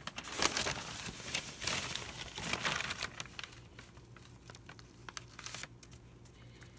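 Brown packing paper crinkling and rustling as it is handled and smoothed out, busiest for the first three seconds, then fainter scattered rustles and taps.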